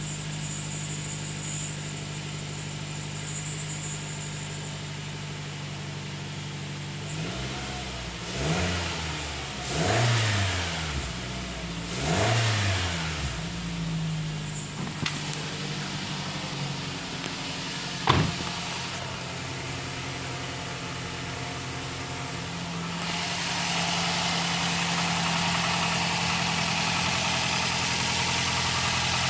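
Nissan X-Trail engine idling steadily, revved briefly three times about a third of the way through, each rev rising and falling back to idle. A single sharp click comes a few seconds later, and a steady hiss joins the idle near the end.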